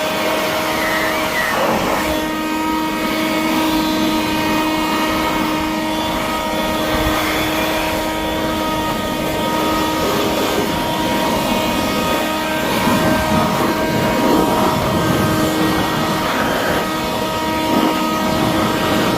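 Small handheld blower running steadily, a whine over a rush of air, blasting dirt and buildup out of the inside of a truck frame rail.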